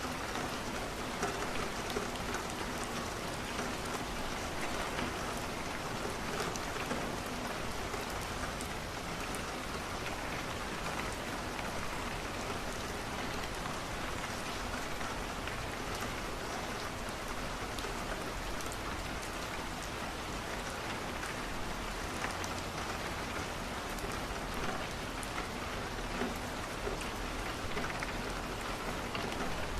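Steady rain falling against a window, with many scattered small ticks of drops through the even hiss.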